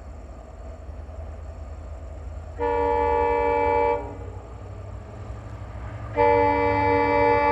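Indian Railways locomotive horn sounding twice over the low rumble of an approaching train: a blast of about a second and a half, then a second, longer blast starting near the end.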